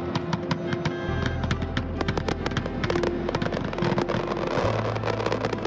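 Aerial fireworks going off in quick succession, many sharp bangs and crackles a second, over background music with a steady bass line.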